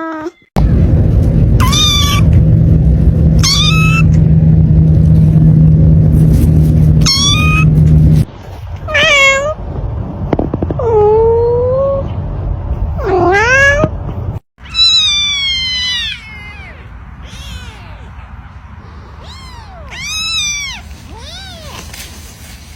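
Domestic cats meowing, spliced from several recordings: about eight seconds of high-pitched kitten meows over a loud low rumble, then lower, drawn-out adult meows, and a quick run of quieter meows near the end.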